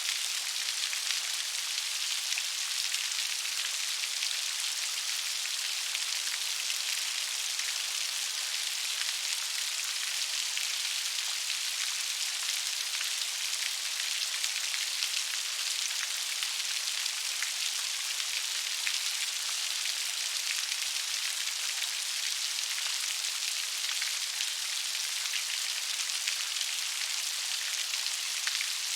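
Steady gentle rain falling, an even hiss of many fine drop ticks with no thunder or deep rumble.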